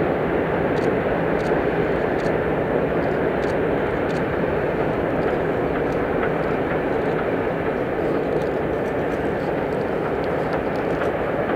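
Steam-hauled passenger train rolling across a steel trestle viaduct: a steady rumble of carriage wheels on the rails, with faint irregular ticks over it.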